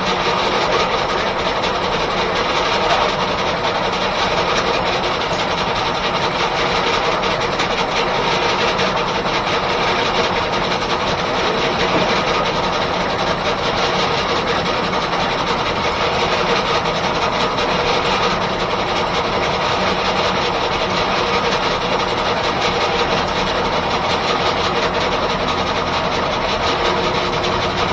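Steam-driven 1880s R.R. Howell left-hand sawmill running: a steady, dense mechanical clatter with no break.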